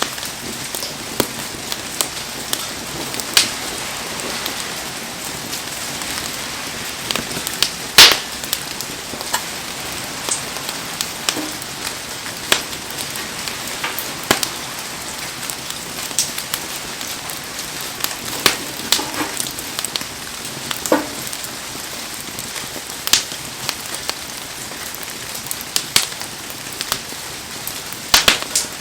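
Heavy rain falling steadily, with a wood fire crackling and popping through it in irregular sharp snaps; the loudest pop comes about eight seconds in.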